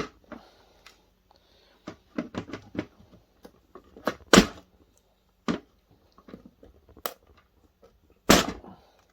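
Hard plastic being clipped and cracked away from a brass threaded insert: a series of sharp snaps, the loudest about four and a half and eight seconds in.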